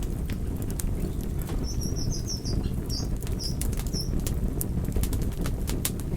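Wood fire burning with a steady low rumble and frequent sharp crackles and pops. A brief run of high chirps sounds about two to four seconds in.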